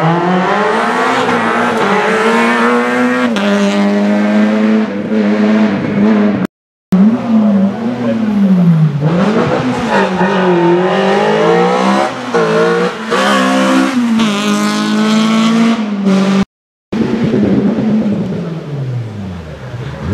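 Rally car engines revving hard, the pitch climbing through each gear and dropping back at every upshift, then falling as a car brakes or passes. The sound cuts out completely for a moment twice, about six and a half and sixteen and a half seconds in, where one car's run gives way to the next.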